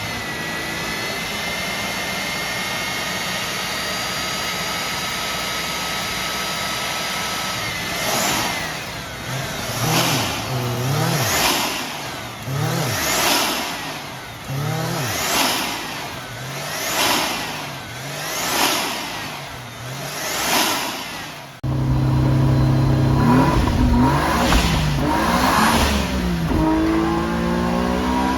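Mazda 20B-REW three-rotor twin-turbo rotary engine runs steadily with a whine, then is blipped again and again, about one rev every second and a half. About two-thirds through it suddenly sounds louder and deeper as the revving goes on.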